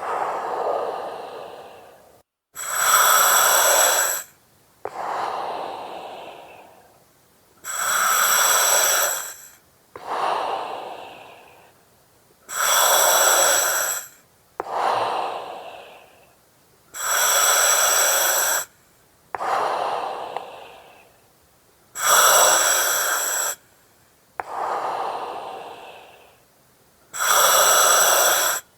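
Slow, steady breathing through an oxygen mask with a regulator, about six breaths. Each breath is a loud hiss with a ringing, whistling edge that starts and stops sharply, followed by a softer breath that fades away.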